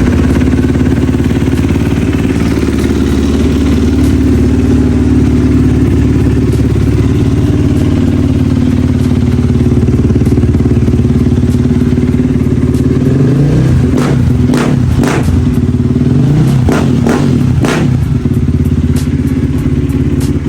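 KTM dirt bike engine running at a steady idle, with a few short revs about two thirds of the way through.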